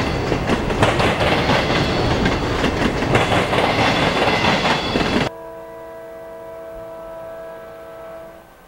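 Freight train of enclosed autorack cars rolling past at close range, a loud rumble with wheels clacking over rail joints. About five seconds in it cuts off sharply to a distant locomotive air horn sounding a steady multi-note chord for about three seconds.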